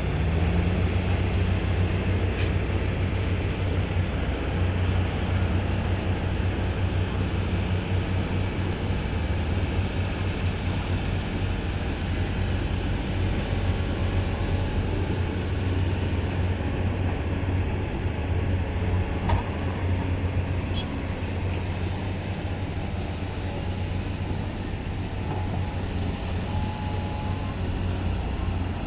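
Heavy diesel engines running steadily in a low drone, as the excavator loads the dump truck, with a single short knock about 19 seconds in.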